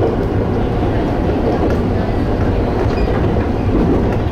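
Electric passenger train on the Tateyama Line running along the track, heard from on board: a steady rumble of wheels on rail with a few faint rail clicks.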